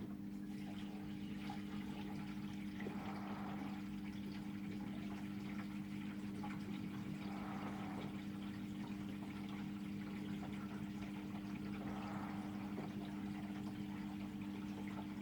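Samsung WW900 washing machine in its Super Speed rinse, spraying water into the turning drum. A steady electric hum runs under a water swish that comes round about every four to five seconds.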